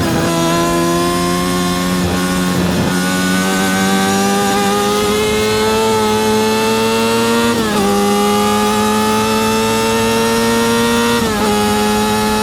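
Yamaha R6's 600cc inline-four engine pulling hard under full throttle, its pitch climbing slowly and steadily through each gear. There are quick upshifts, with a sharp drop in pitch, right at the start, a little past halfway and near the end.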